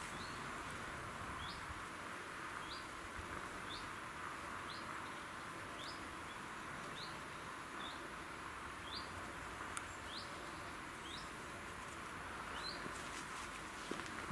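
A bird repeating a short rising call roughly once a second, over a steady background hiss.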